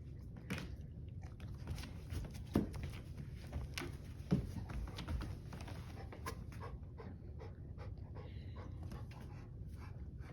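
Dog panting, with scattered light clicks and two louder thumps, about two and a half and four seconds in.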